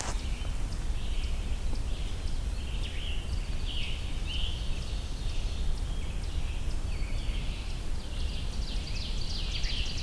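Several forest songbirds singing, with short high phrases following one another in quick succession and overlapping, over a steady low rumble of outdoor background noise.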